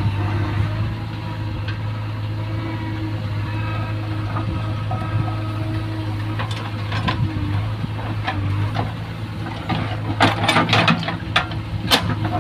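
Heavy diesel engine running steadily, with scattered knocks and then a quick cluster of clanks and thuds near the end.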